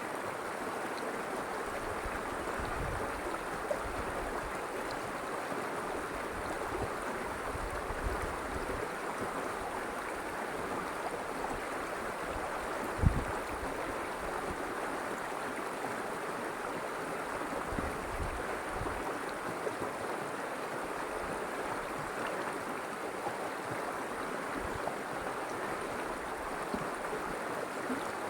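River water flowing steadily over its bed, a continuous rushing babble, with a single short low thump about halfway through.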